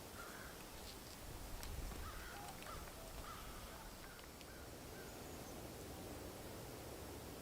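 Faint outdoor ambience with short bird calls repeating on and off throughout, over a low rumble.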